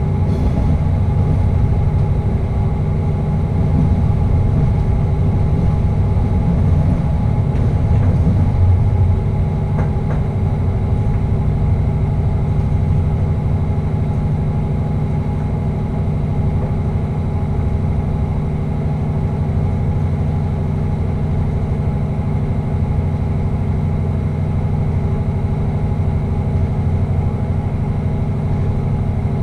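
Passenger train running at speed through a tunnel, heard from the driver's cab: a steady low rumble with a constant hum of several steady tones over it. The rumble is a little heavier for the first nine seconds or so, then settles.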